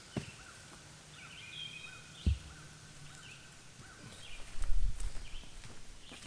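Birds calling outdoors, one giving a short repeated chirp every few tenths of a second. A few dull thumps sound, and a louder low rumbling bump comes about two-thirds through.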